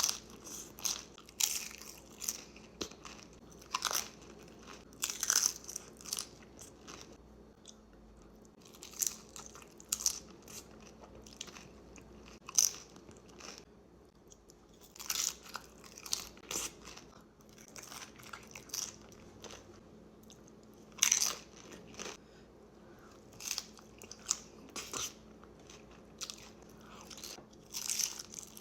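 Close-up crunchy bites and chewing of nachos (tortilla chips), irregular sharp crunches every second or two with quieter chewing between.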